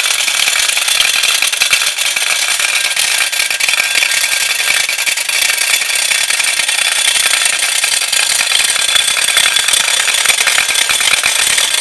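Wilesco D18 live-steam toy engine driving its belt-driven model workshop, with a fast, steady metallic rattle and clatter of the small machines.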